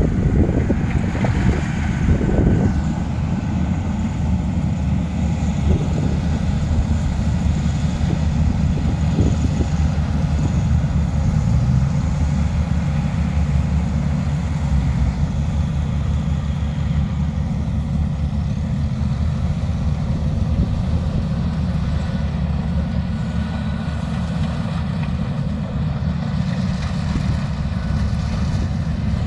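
Steady low engine drone of rice-harvest machinery running, mixed with wind rumbling on the microphone.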